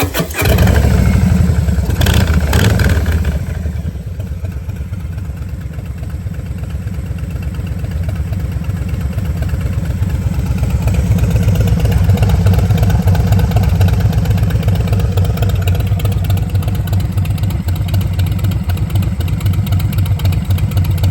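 Harley-Davidson Milwaukee-Eight 114 V-twin starting up through Radiant Cycles GP Shorties slip-on mufflers. It catches right at the start and runs louder at a fast idle for about three seconds. Then it settles into a steady, pulsing idle.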